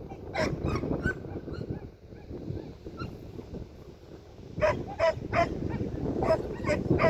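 Border collie barking: a few sharp barks about a second in, then a quicker string of barks in the second half. Gusting wind rumbles on the microphone underneath.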